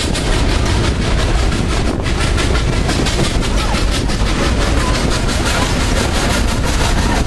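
Passenger train rolling along the track, heard from an open-air car: a steady rumble and rattle of wheels on rail.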